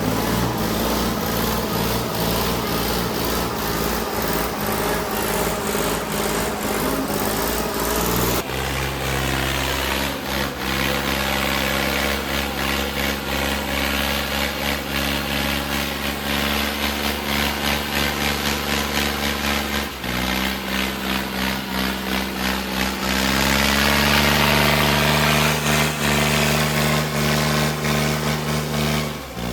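Tractor diesel engines running hard, as in a tug-of-war pull under load. The engine note steps abruptly to a new pitch about 8 seconds in, again about 20 seconds in, and again about 23 seconds in.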